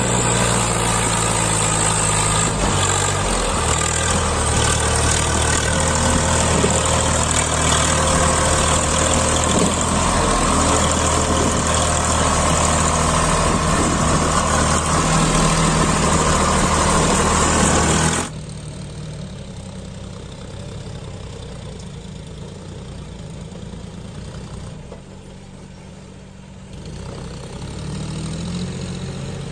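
Tractor diesel engine running loud and steady. About eighteen seconds in, the sound drops abruptly to a quieter, lower engine noise, which dips further and then rises again near the end.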